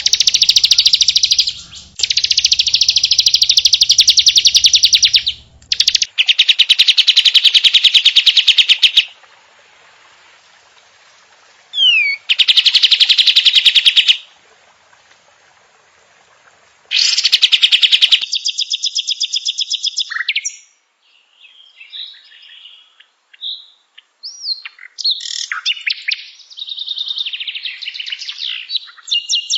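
Songbird song: several long, very fast buzzing trills separated by short pauses for about the first eighteen seconds, then a run of varied short whistles and chirps.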